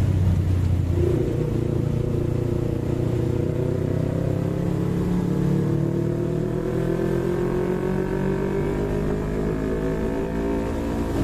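Yamaha MT-25 parallel-twin engine pulling under steady acceleration, its note rising slowly and evenly over several seconds, over a steady low rumble of road and wind noise.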